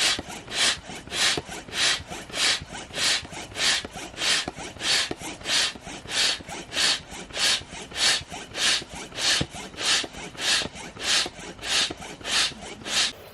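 Hand saw cutting through wood in steady, even back-and-forth strokes, a bit under two a second, stopping right at the end.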